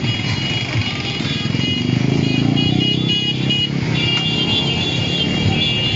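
Motorcycle engines running as a caravan of motorcycles rides past, getting louder about two seconds in.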